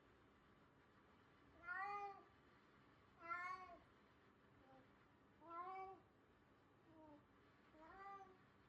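A cat meowing softly: four drawn-out meows about two seconds apart, with two shorter, fainter ones between them.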